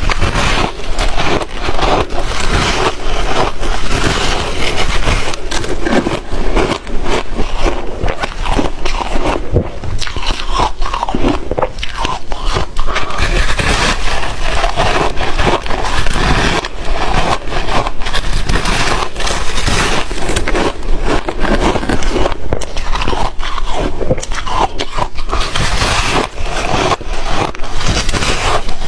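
Ice cubes being bitten and chewed close to the microphone: a dense, continuous run of loud crunching and crackling.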